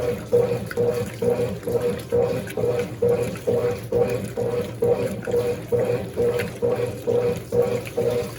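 Brastemp Baby Mondial BLK20 washing machine agitating a load in water during the rinse, its agitator sloshing back and forth in an even rhythm of a little over two strokes a second.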